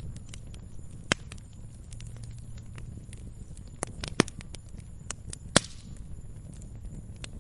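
Wood fire crackling in a fireplace: irregular sharp pops and snaps over a low steady rumble of the flames, with the loudest pops about a second in, around four seconds in and at about five and a half seconds.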